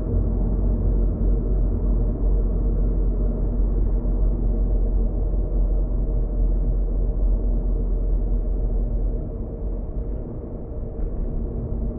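Car cabin road and engine noise while driving: a steady low rumble with a faint hum, easing somewhat about nine seconds in.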